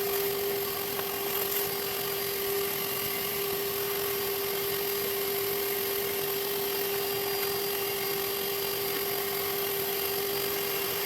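A small electric motor-driven tool running steadily, with a constant whine over a rushing air hiss, used to clear mouse-nest debris from the Briggs & Stratton engine's cooling area.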